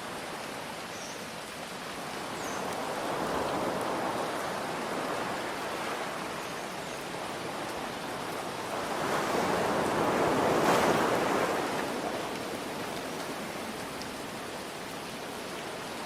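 Steady rain hiss with ocean waves breaking, one swell building about three seconds in and a larger one peaking about ten seconds in before washing back.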